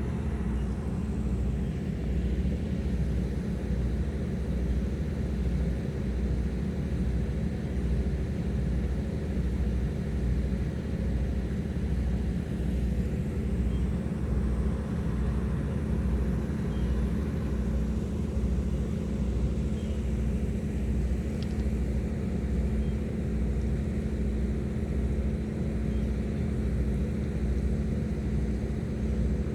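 High-speed passenger boat's engines running steadily at cruise: a constant low drone with an even throb underneath.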